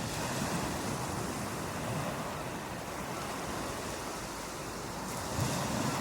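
Ocean waves washing onto a beach in a steady rushing wash, swelling slightly near the end.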